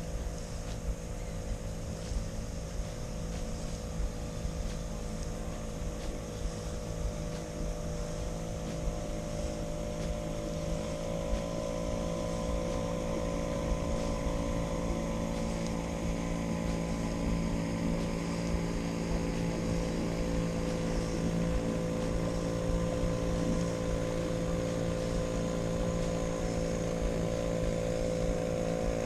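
Boat outboard motor running steadily on the river, its tone drifting slightly higher and getting a little louder partway through.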